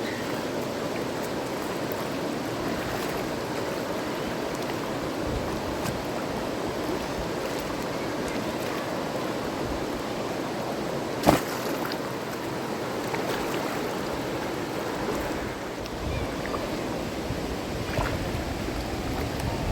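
River water rushing steadily, with one sharp knock about halfway through.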